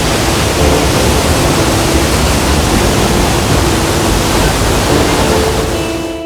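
A waterfall running at high flow after a day of heavy rain: a loud, steady roar of falling water.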